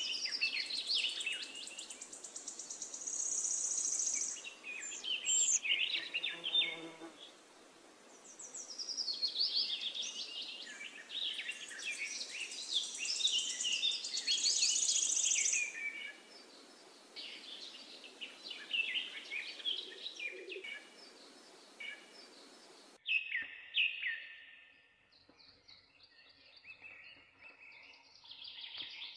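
Birds chirping and calling, many short overlapping calls with bursts of a fast, high trill, over a faint steady hiss that cuts off suddenly near the end.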